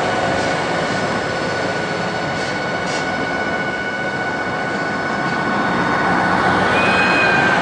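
Freight train of cement tank wagons rolling slowly on the track during shunting: a steady rumble and hiss with a thin steady whine, and brief higher squeals near the end.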